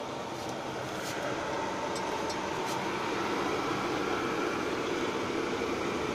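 Pellet stove running: a steady rush of its fan and burning fire, growing slightly louder, with a few faint ticks in the first three seconds.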